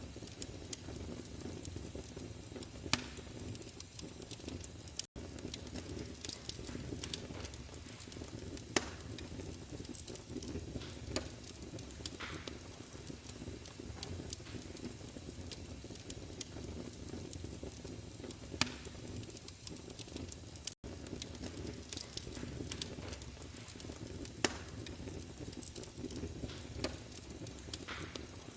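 Wood fire in a fireplace crackling steadily over a low rumble, with a sharp pop every few seconds. The sound cuts out for an instant twice.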